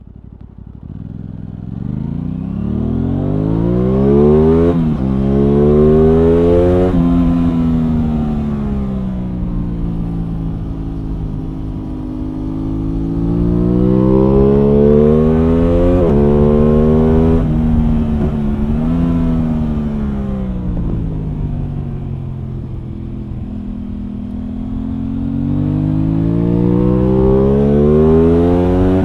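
Aprilia Tuono 660 Factory's parallel-twin engine under way. The revs climb as it accelerates, dropping sharply at upshifts about five and sixteen seconds in, fall away as it slows, and climb again near the end.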